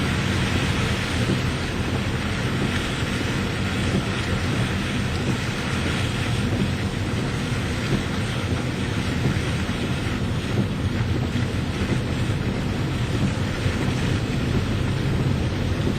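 Steady rain with wind, the wind rumbling on the microphone.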